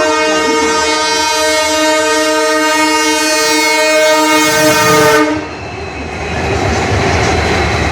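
A train locomotive's horn sounds one long steady blast that cuts off about five seconds in. The rushing rumble and clatter of the train passing at speed follows.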